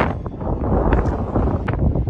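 Wind buffeting the microphone in a steady low rumble, with a few short splashes of lake water lapping.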